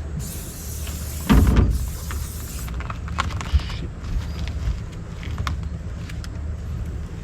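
A boat motor running steadily with a low hum, with a loud thump about a second and a half in and a few light clicks and knocks.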